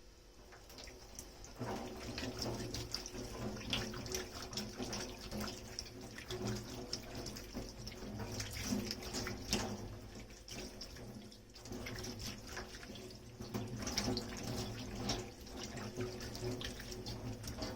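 Kitchen tap running into a sink while dishes are washed and rinsed, starting about a second and a half in, with light clinks and knocks of dishware against the sink.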